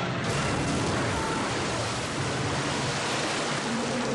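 A loud, steady rush of water that sets in abruptly a moment in, as the small plane crashes into the ocean.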